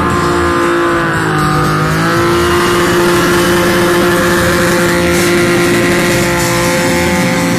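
Car engine held at high revs during a burnout, its pitch dipping briefly about a second in and then climbing back to a steady high note.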